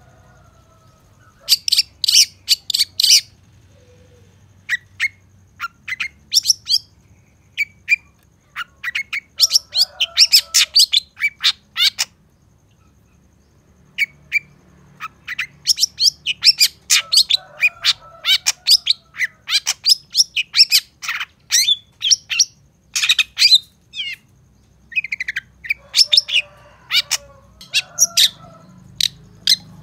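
Long-tailed shrike (cendet) singing a rapid chattering song of sharp, high notes in phrases a few seconds long, with short pauses between them; the song is full of mimicked phrases (isian).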